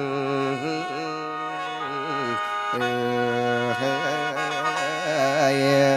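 Mor lam music: a khaen, the bamboo free-reed mouth organ, holds a steady drone while a melody line bends and wavers above it, breaking off briefly about two and a half seconds in.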